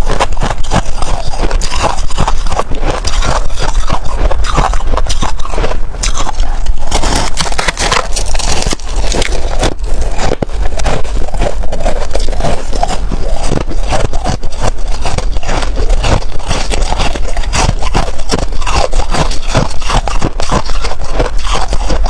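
Close-up crunching and chewing of white freezer frost: a dense, unbroken run of rapid crisp crunches.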